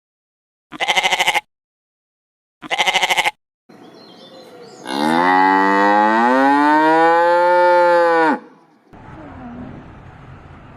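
Two short quavering bleats about two seconds apart, then a cow mooing once, a long call of about three seconds that rises in pitch and then eases down.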